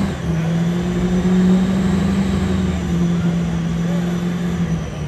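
Small-block V8 with a loud exhaust held at high revs in a steady drone; the pitch dips slightly near the end.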